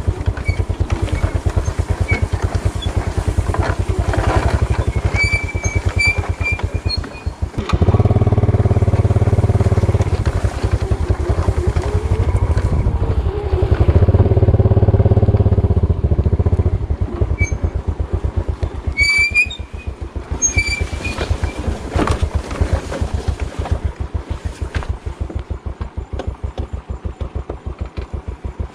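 Small motorbike engine running at low speed on a slippery dirt track. The revs drop briefly about seven seconds in and then pick up again. The engine is eased off and runs more unevenly in the second half.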